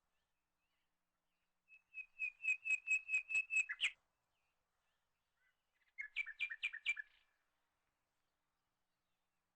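A songbird singing two phrases. The first is a run of about nine evenly repeated high notes, ending in a quick flourish. The second, a few seconds later, is a shorter, faster trill of two-pitched notes.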